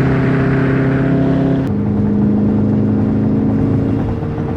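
A car engine running loud and steady, its note shifting suddenly a little under two seconds in.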